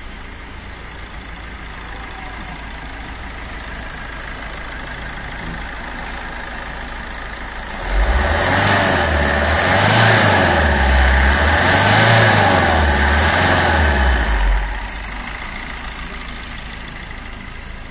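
Four-cylinder diesel engine of a Maruti Suzuki Ertiga idling steadily, then revved up and down twice over about six seconds in the middle before settling back to idle. It holds its idle and takes the revs without stalling, with its fuel fed directly.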